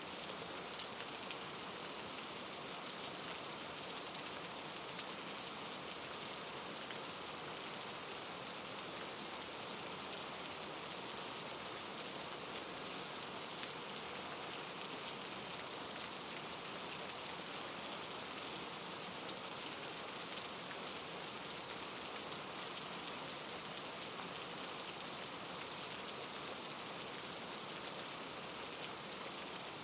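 Steady, soft rain falling and pattering on a surface, an even hiss of drops with no change in intensity.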